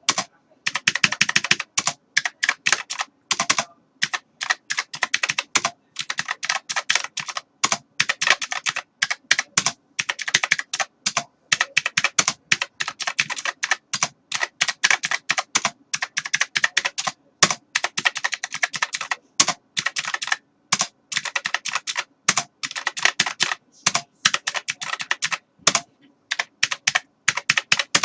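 Fast typing on a computer keyboard: rapid runs of sharp key clicks in bursts of a second or two, broken by short pauses.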